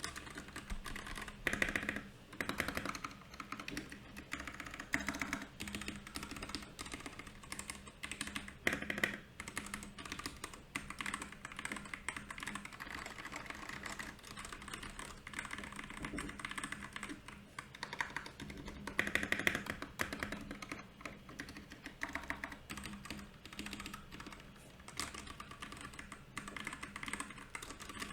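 Continuous fast typing on a Royal Kludge RK68 mechanical keyboard: a dense run of key clicks, with louder flurries about nine and nineteen seconds in.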